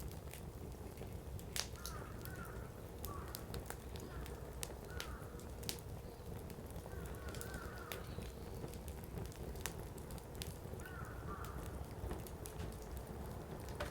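Firewood burning in a campfire pan, crackling with many sharp pops scattered irregularly over a low steady hiss. A bird calls faintly in the background in short repeated phrases every second or two.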